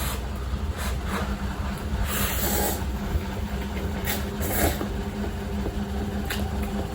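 Eating instant cup noodles close to the microphone: several short slurping and chewing noises over a steady low hum.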